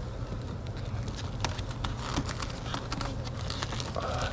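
A wooden frame being worked up out of a beehive box, making many small clicks and scrapes as it sticks. A steady low hum of honeybees runs underneath.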